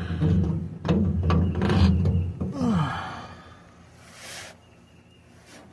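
A man's low straining groans, a falling groan, then breathy sighs, the effort of working a pinion gear out of a differential housing.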